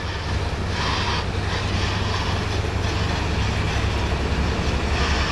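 Heavy cement-laden truck driving on the road: a steady low engine rumble with tyre and road noise.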